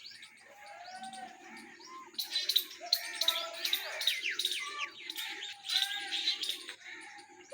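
Birds chirping and calling, with a dense run of quick, high chirps from about two seconds in over lower, held calls.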